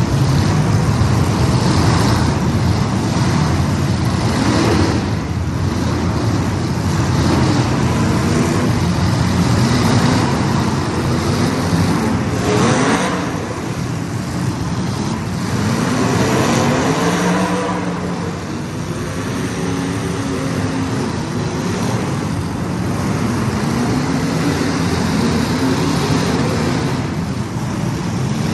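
Several race car engines running together, their pitch rising and falling over and over as the cars accelerate and slow around the track.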